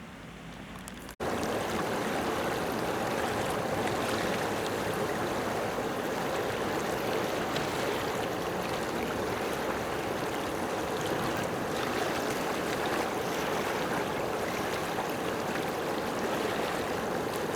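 Steady rushing noise, like running water, that starts abruptly about a second in after a faint hum.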